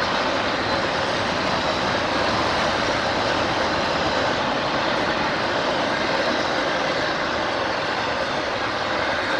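A train rolling past, a steady, even rush of wheels on the rails.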